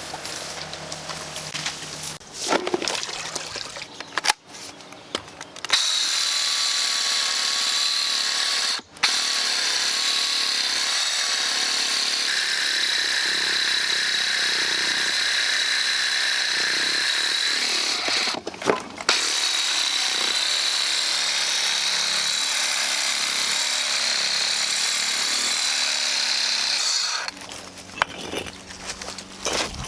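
Water spraying hard onto rocks to wash them, a steady loud hiss that starts about six seconds in, breaks off twice for a moment and stops near the end.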